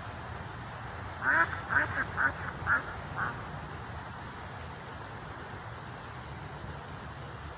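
A bird calling a run of about six short calls in quick succession, starting about a second in, the last one fainter, over a steady low background rumble.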